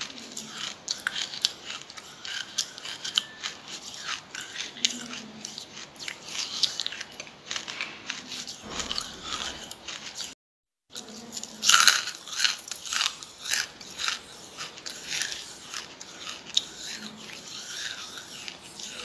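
A person chewing charcoal close to the microphone: a dense, irregular run of sharp crunches and bites. The sound drops out for a moment about halfway, and the loudest crunches come just after.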